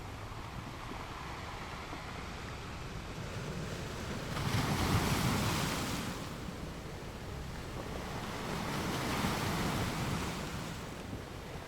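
Ocean surf: a steady wash of waves, with a wave breaking loudest about four and a half seconds in and a second, softer surge near the end.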